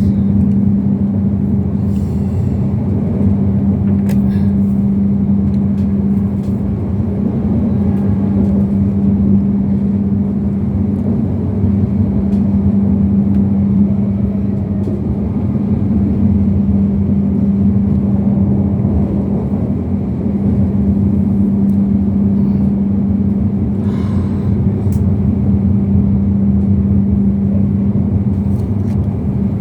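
Passenger train running steadily through a curve: a continuous low rumble with a steady hum, and a few faint clicks.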